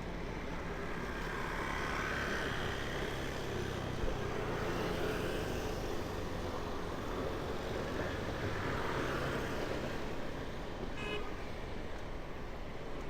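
Busy street traffic heard from a bicycle, with vehicles passing in swells. A brief high horn beep sounds near the end.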